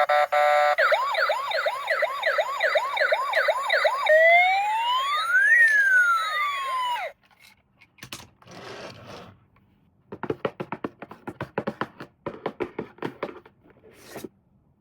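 Electronic toy police siren: a few quick beeps, then a fast repeating yelp, then one slow rising-and-falling wail that cuts off suddenly about seven seconds in. Light clicks and rattles follow.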